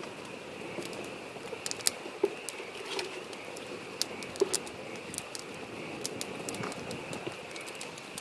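Wood campfire crackling, with irregular sharp pops and snaps. Behind it runs the steady rush of a small stream and a continuous high chorus of frogs.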